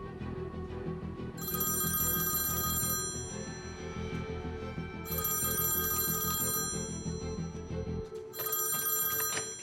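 Telephone bell ringing three times, each ring about a second and a half long, over background music.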